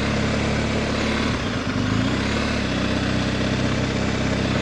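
Adventure motorcycle's engine running at a low, steady pace, with a brief dip in its note about a second and a half in.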